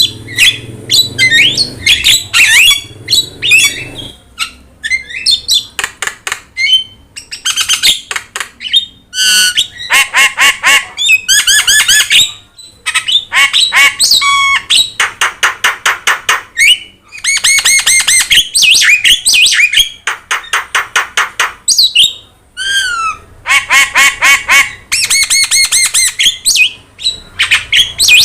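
Javan myna (jalak kebo) calling loudly without pause: a fast, varied stream of harsh squawks and chattering runs of rapidly repeated notes, mixed with a few short whistled glides.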